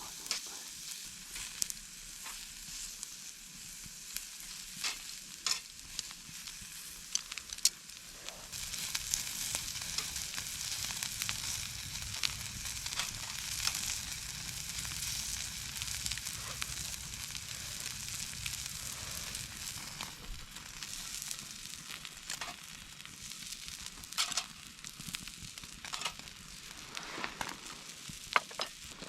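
Food sizzling as it fries, with scattered sharp clicks. The sizzle grows louder about eight seconds in and eases off after about twenty seconds.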